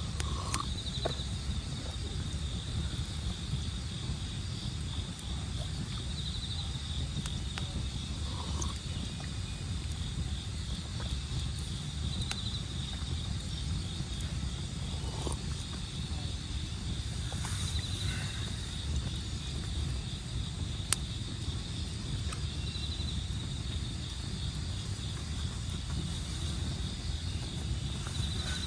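Wood campfire burning, with scattered sharp crackles and one louder pop about two-thirds of the way through, over a low steady rumble. Autumn insects trill steadily in the background, swelling every few seconds.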